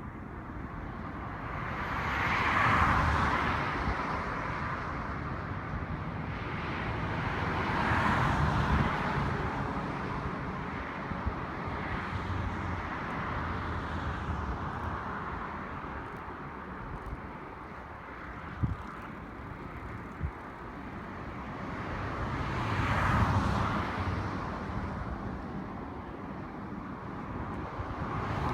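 Outdoor background noise that swells and fades three times, each swell lasting a few seconds, with two short knocks about a second and a half apart near the middle.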